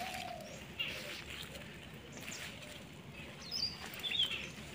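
Quiet outdoor background with birds chirping faintly, two short high calls about three and a half and four seconds in, over light rustling of leafy plants being pulled up by hand.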